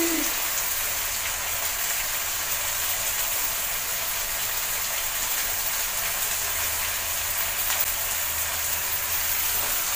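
Chicken masala sizzling steadily in a kadai over high heat, an even hiss with a faint low hum beneath it.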